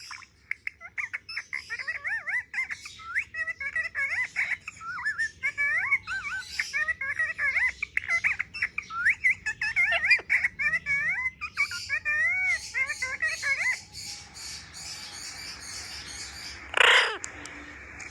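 Pet parrot chattering in quick, twisting whistled chirps, then one short, loud call near the end.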